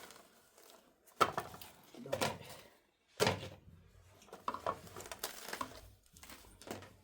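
Two sharp knocks about two seconds apart, each followed by a short rattle, then a run of lighter, irregular clattering: objects being knocked and handled in a small room.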